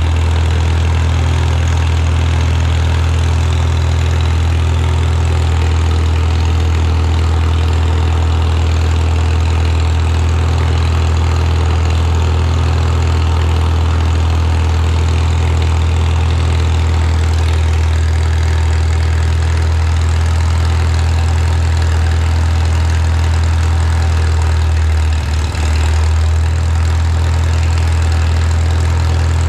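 Farmall Super M tractor's four-cylinder engine running steadily at idle, with one brief dip near the end.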